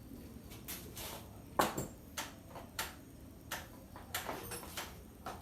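Irregular clicks and light knocks of hands working on an electrical panel and its parts, about a dozen spread over a few seconds, the sharpest about a second and a half in. The grinding machine's motor is not running.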